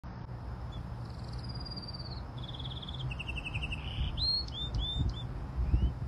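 A songbird singing a varied song: several high trills, each at a different pitch, then a few short rising notes. A steady low rumble lies underneath, with a few thumps near the end.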